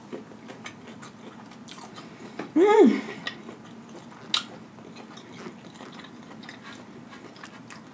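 Close-miked chewing with the mouth closed, small wet clicks of the mouth and food. About two and a half seconds in, a short loud hummed "mmm" of enjoyment that rises and then falls in pitch.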